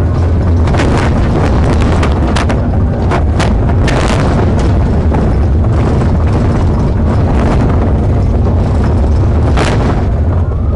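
Heavy, steady rumble of a vehicle driving at speed, with road noise and scattered sharp knocks.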